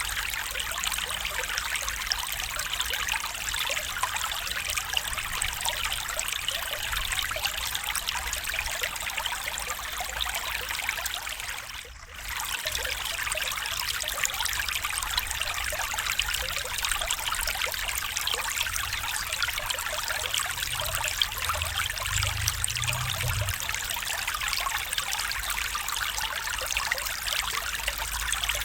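A stream's water trickling and burbling steadily. The sound dips briefly about twelve seconds in and comes straight back.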